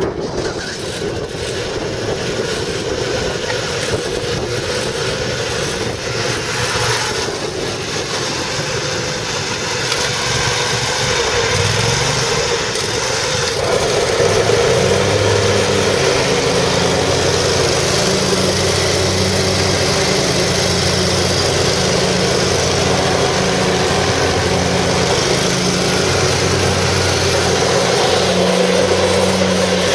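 Kohler Command 25 horsepower V-twin engine of an Exmark Lazer Z zero-turn mower running. It rises in pitch and gets louder about twelve to fourteen seconds in, then holds at a steady higher speed.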